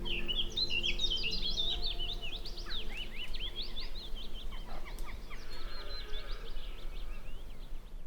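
Birdsong: several small birds chirping and twittering in quick, rising and falling notes, busiest in the first few seconds and thinning out later.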